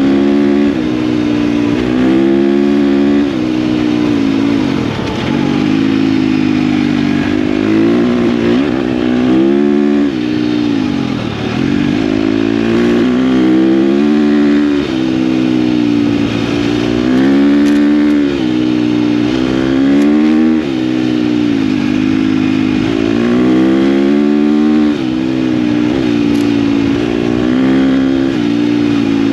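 KTM dirt bike engine running hard while riding, its revs rising and falling again and again with throttle and gear changes, over steady wind and road noise.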